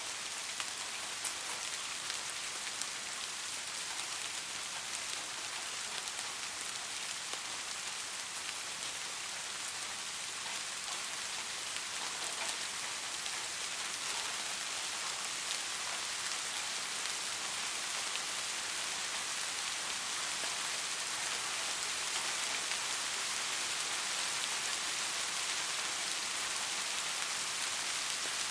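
Steady rainfall pattering on a surface, a dense hiss with scattered individual drop ticks, growing slightly louder over the last half.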